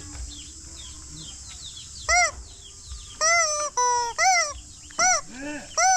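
Farm fowl calling. Faint peeping chirps are followed, about two seconds in, by a quick run of loud, harsh honking calls, each rising then falling in pitch.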